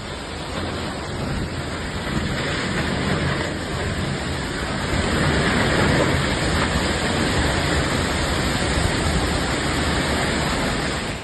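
Strong storm wind blowing hard as a steady rushing noise, swelling a little past the middle and cutting off sharply at the end.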